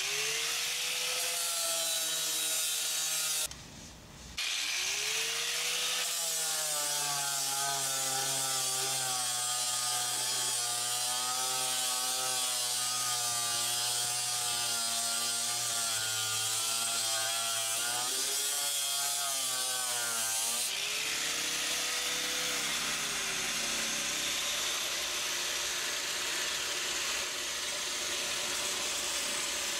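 Angle grinder grinding fiberglass, its motor pitch wavering as the disc bears on the surface. It drops out briefly about four seconds in, then spins back up.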